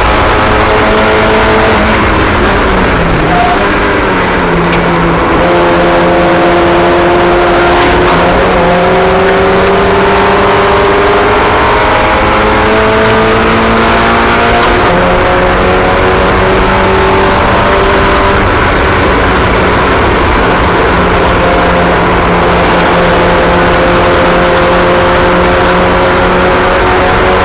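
Several small race car engines running together, their pitches rising and falling as the cars go round the track.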